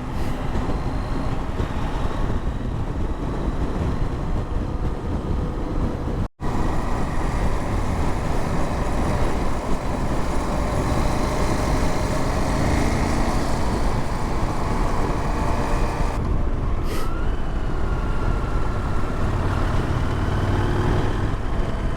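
KTM adventure motorcycle under way: a steady engine drone mixed with heavy wind rush on the helmet microphone. The sound cuts out for a moment about six seconds in.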